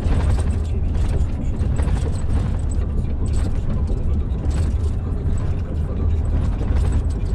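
Truck cab interior on the move: a steady low engine and road rumble, with frequent irregular knocks and rattles as the truck runs over the rough original surface of the old Reichsautobahn.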